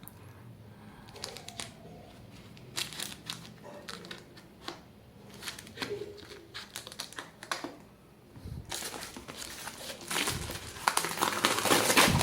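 A postal parcel's packaging being crinkled and torn open by hand: scattered crackles at first, then louder, continuous rustling from about nine seconds in.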